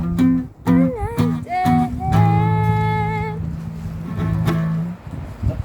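Acoustic guitar strummed with a voice singing along, a long note held in the middle; the strumming and singing stop about five seconds in.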